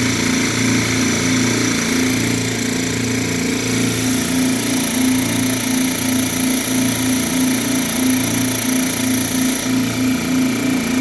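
Air Star 50 dental air compressor, its two pump motors running together with a steady hum and a regular throb as they build tank pressure toward cut-out.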